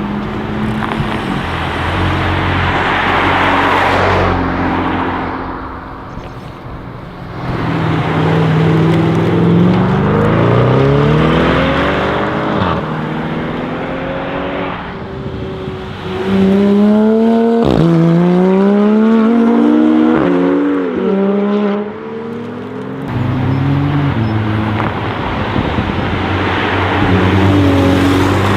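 Mercedes-AMG G63's twin-turbo V8 through an Akrapovic exhaust, accelerating hard several times, its pitch climbing and then dropping at each gear change. There is one sharp crack a little past halfway.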